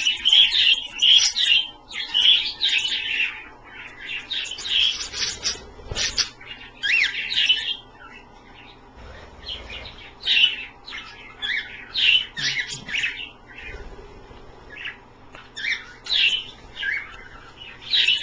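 Pet budgerigars and cockatiels chirping and chattering in many short bursts, with a couple of quieter stretches.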